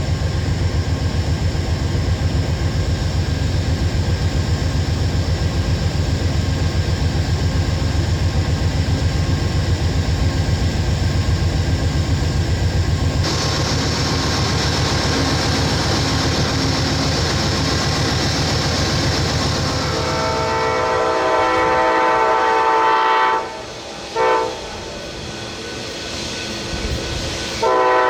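A train passing close by with a heavy, pulsing low rumble. About 20 seconds in, a diesel locomotive's air horn starts sounding a steady chord. It drops away twice briefly, stays quieter for a few seconds, then comes back loud near the end.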